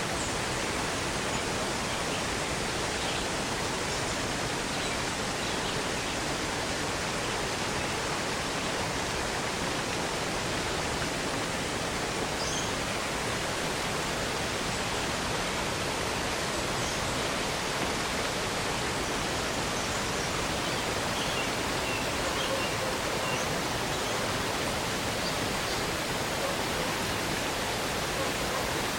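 Steady rushing of the Saut du Day waterfall: an even, unbroken wash of falling water.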